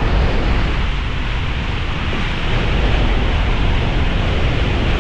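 Steady rushing of canyon stream water, a loud, even wash of noise with a deep rumble underneath.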